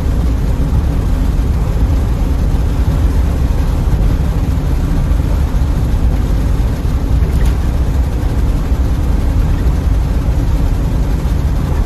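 Car driving on the road: a steady, even low rumble of engine and road noise.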